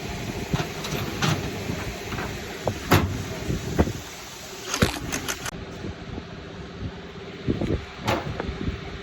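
Workshop clatter during engine work: several sharp knocks and clinks of metal tools and parts, scattered irregularly, over a steady low hum.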